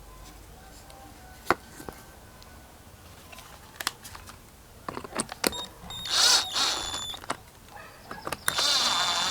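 Scattered sharp clicks and taps of small parts being handled, then a small power drill running in two short bursts of about a second each in the second half.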